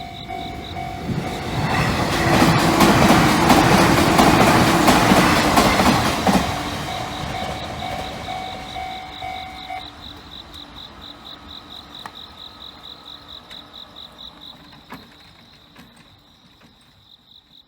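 A 485-series electric train passes by: its rumble and clickety-clack over the rail joints swell to a peak a few seconds in, then fade slowly away. Crickets chirp in a steady pulsing rhythm throughout.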